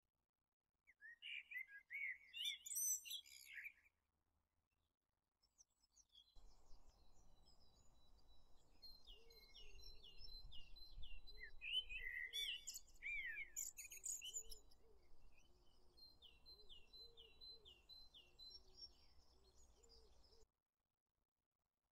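Small birds chirping and singing: a short burst of song in the first few seconds, then a longer stretch with repeated runs of short falling notes over a faint low rumble, cutting off suddenly near the end.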